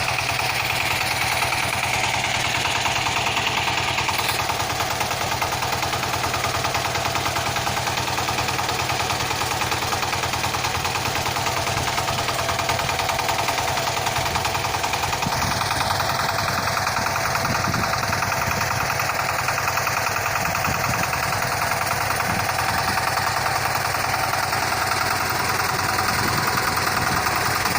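Small motor of a homemade model tractor with water pump running steadily, with a fast, even buzz and a slight shift in tone about halfway through.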